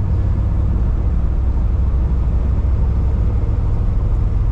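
A 1989 Chevy G20 van's engine running, heard from inside the cab as a steady low drone.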